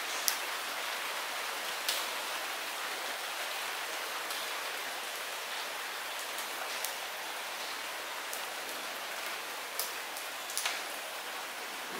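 Light rain falling steadily in vegetation, an even hiss with a few sharper drips standing out, about half a second in, near two seconds and twice near the end.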